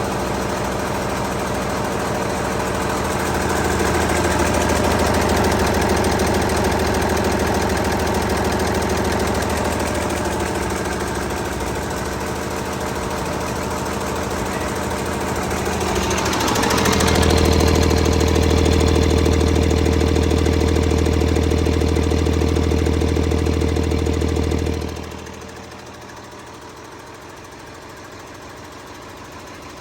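2012 Cummins ISL9 inline-six diesel engine running with a clattering note. It is revved up a little over halfway through and held at higher speed, then the sound drops away sharply near the end.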